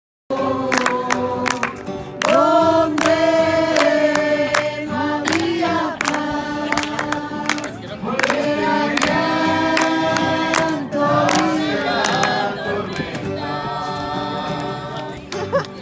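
A group of voices singing a worship song together, with sharp percussive hits throughout. It starts abruptly a moment in.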